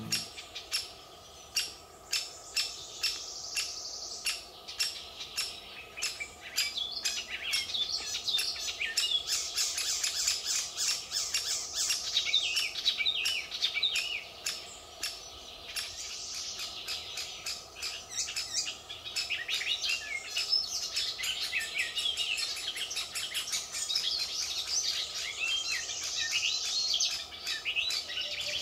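Woodland chorus of many small songbirds chirping and trilling. Beneath it, regular footsteps about one and a half a second, clearest in the first several seconds.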